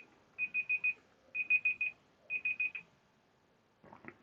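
Electronic alarm beeping in quick groups of four short, high beeps, about one group a second, stopping about three seconds in.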